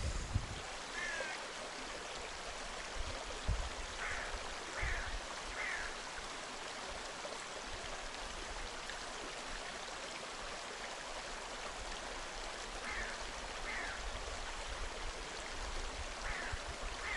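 Steady, even rush of a flowing stream, with a few short high chirps scattered through it.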